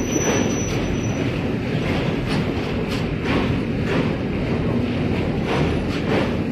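Two passenger express trains running past each other on parallel tracks: steady rolling rumble of the coaches with irregular wheel clacks over rail joints. A faint high whine sounds in the first second.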